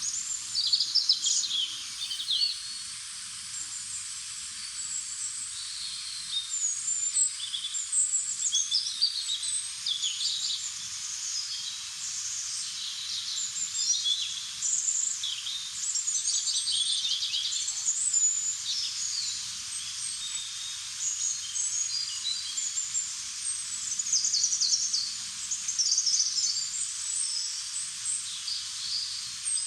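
Many birds singing and chirping at once, with short high calls and trills overlapping throughout.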